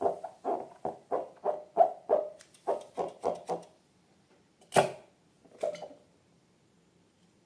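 Slime being squished by hand over and over, about three soft squelches a second, stopping a little past halfway, then two more single squishes.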